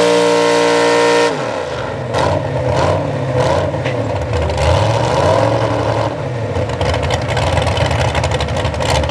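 Big-block V8 pulling truck engine held at high revs under full throttle, then let off about a second in, the revs falling away. It then runs unevenly at low revs, its pitch rising and falling.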